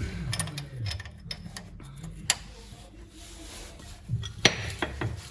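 Scattered metallic clinks and taps of hand tools on the car's underside, with a sharp clink about two seconds in and a louder knock near the end, as a seized gearbox drain bolt is worked with a hex key.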